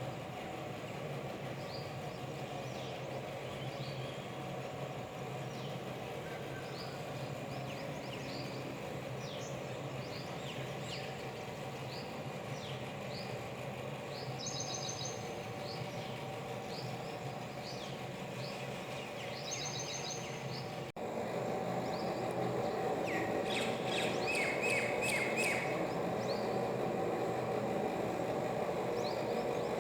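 Birds chirping repeatedly over a steady hum of street and traffic noise. About two-thirds of the way through there is a cut, after which the background is louder and a quick run of bird calls follows.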